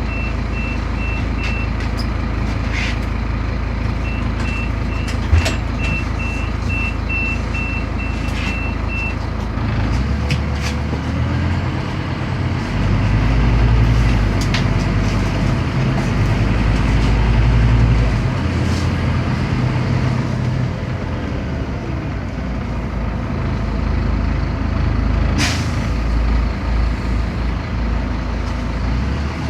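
A Scania CN270UB city bus heard from inside the cabin. Its diesel engine runs at low revs while a high beep repeats in short pulses, then about ten seconds in the bus pulls away and the engine revs up in two surges. Body rattles and knocks go on throughout, with a short hiss near the end.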